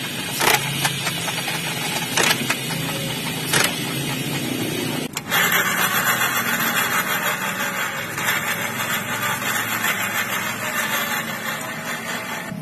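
Automatic scooter engine and CVT running, with several sharp knocks over the first few seconds. About five seconds in the sound briefly drops out, then comes back steadier and fuller.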